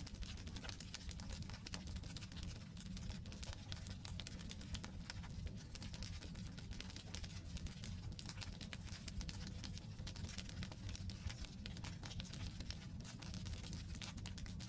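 Wood campfire burning: dense, irregular crackles and pops from the logs over a low steady rumble.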